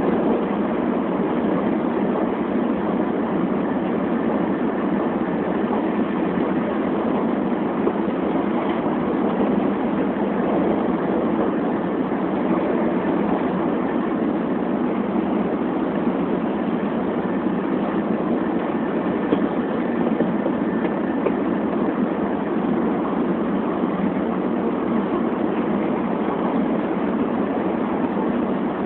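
Steady running noise of a Shinkansen bullet train, heard from inside the passenger car as it travels: an even rumble and rush with no breaks.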